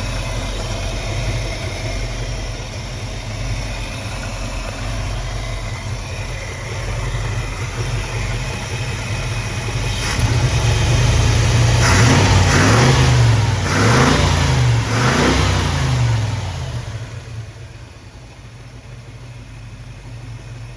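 Mid-90s Ford 302 V8 idling steadily, then revved up several times, with three quick blips of the throttle about twelve to sixteen seconds in, before settling back to a quieter idle.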